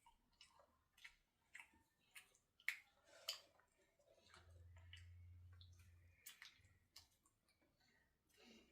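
Near silence with scattered faint clicks and taps, the sharpest a little under three seconds in, and a faint low hum in the middle for about two seconds.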